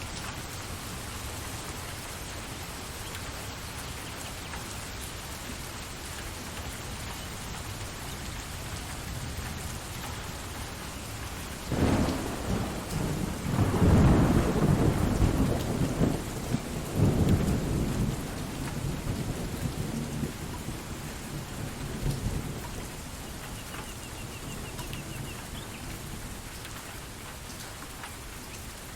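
Steady rainfall, with a roll of thunder that breaks in suddenly about twelve seconds in, is loudest a couple of seconds later, surges again, then rumbles away over the next few seconds.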